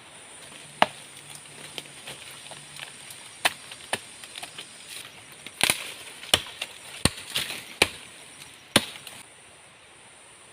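A blade chopping wood: a run of sharp, unevenly spaced strikes, about eight of them.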